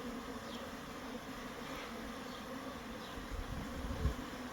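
Honeybees buzzing steadily in flight around a busy, heavily populated hive, an even hum with no break. A brief low rumble about three and a half seconds in is the loudest moment.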